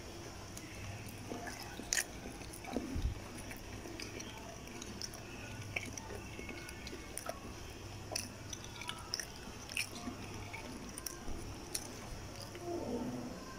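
A person biting and chewing soft food, with scattered wet mouth clicks and small squishy sounds.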